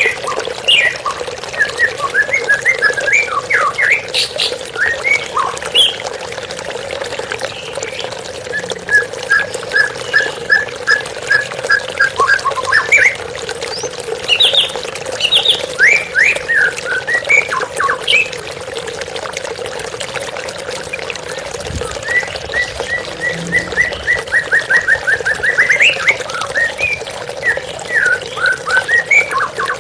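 White-rumped shama singing in varied phrases of whistles and sweeping notes, broken by runs of evenly repeated notes, over a steady sound of flowing water.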